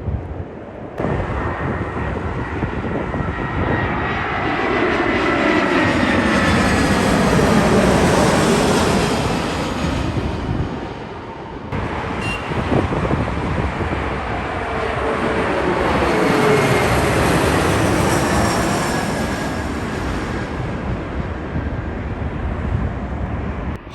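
Jet airliners passing close by, two in turn. Each swells up and fades away, its engine whine gliding down in pitch as it goes past. The first cuts off abruptly about twelve seconds in, and the second follows at once.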